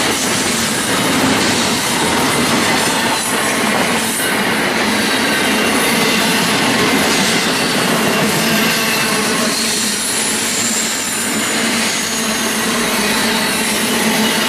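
Intermodal freight train cars rolling past, with steady wheel-on-rail noise, some clacking over the rail joints and a thin, high wheel squeal.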